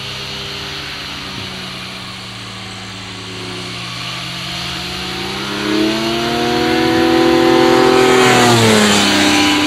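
A Kitfox light aircraft's engine and propeller run steadily at low power. About five seconds in the throttle is opened and the engine note rises in pitch and gets louder. It holds for a few seconds, then falls back near the end as power comes off. This is the pilot powering up to taxi while the tricycle nosewheel bogs down in the snow.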